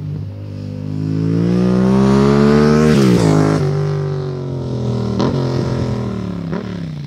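Yamaha MT-07 parallel-twin engine through a MIVV GP carbon exhaust, rising in pitch and loudness to a peak about three seconds in, then dropping sharply and falling away gradually. Two brief sharp pops come near the end.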